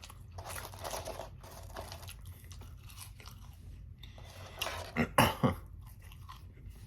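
Close-miked chewing of french fries, soft and irregular, with three louder sharp mouth sounds in quick succession about five seconds in.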